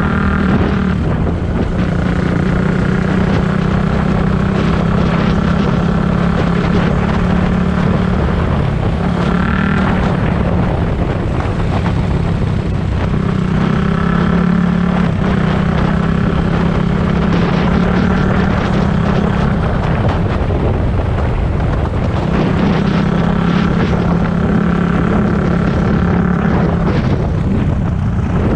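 A four-stroke dirt bike engine running under way, its pitch rising and falling as the throttle is opened and closed through the ride.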